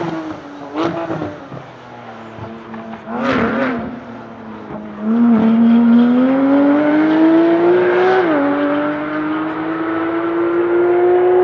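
Performance car engine: a couple of short revs, then hard acceleration about five seconds in, its pitch climbing steadily. Pitch drops sharply at an upshift about eight seconds in, then climbs again in the next gear.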